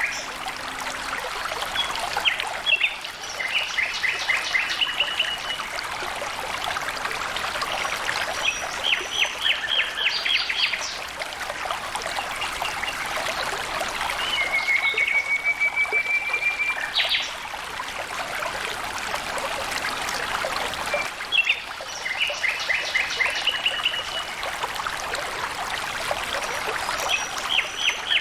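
Water flowing and trickling steadily, with a bird calling over it every few seconds in short, rapid chattering phrases, one of them a drawn-out slightly rising whistle.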